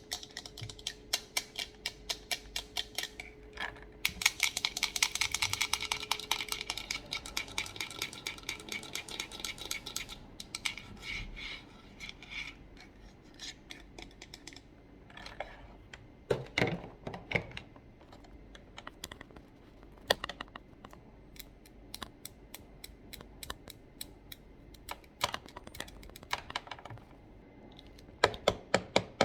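Fast tapping and clicking on computer keyboard keys in quick runs. The tapping is densest a few seconds in and thins out later, with a few louder knocks in the middle and near the end.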